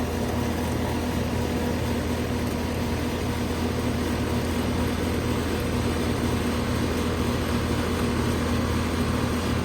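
A 2011 Carrier-badged ICP Performance Series central air-conditioner condensing unit running: a steady hum from its Copeland scroll compressor and condenser fan.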